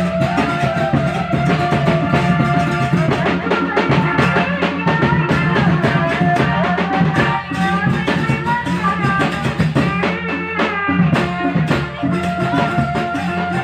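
Live band music: a drum kit and bass keep a steady beat under a wavering, bending melodic lead line.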